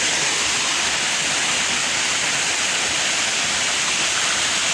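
Waterfall: water falling and splashing with a steady rushing roar.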